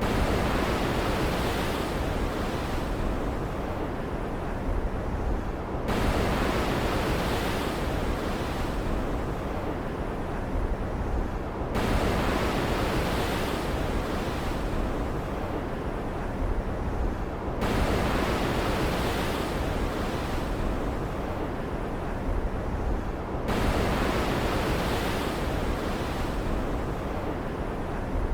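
Storm-at-sea ambience: a steady rushing noise of surf and rain. It swells suddenly about every six seconds and then eases off, in a short repeating pattern.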